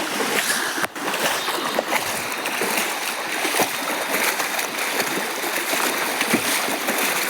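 Flowing water rushing and splashing steadily, with many small splashes, briefly cutting out about a second in.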